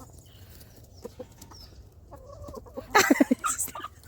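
Backyard chickens clucking, quietly at first, then a burst of loud clucks about three seconds in.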